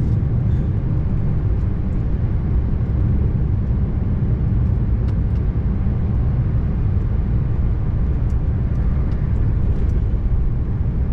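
Scania R590's 16-litre V8 diesel running steadily under way, a deep even drone with road noise and no change in pitch.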